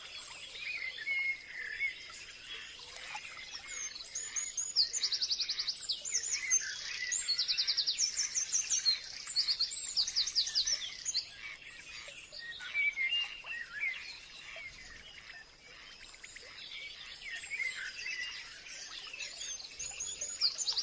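Forest birdsong: several birds chirping, one of them repeating a fast, high trill in bursts of about a second, several times in the middle and again at the end, over softer scattered chirps and a faint steady high hum.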